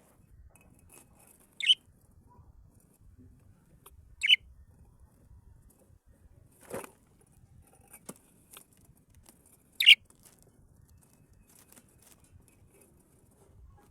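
Cage birds giving short, sharp single calls, three in all a few seconds apart, with a softer rustle and a faint click between them.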